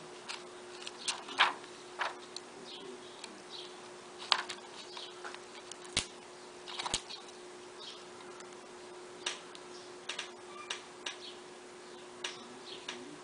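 Irregular light clicks and taps, a few sharper than the rest, from small tools and parts being handled while working on a smartphone. A steady faint hum runs underneath.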